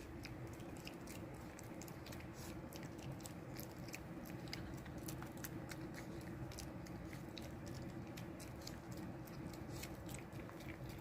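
A chihuahua chewing a treat: faint, irregular crunching clicks, with a steady low hum underneath.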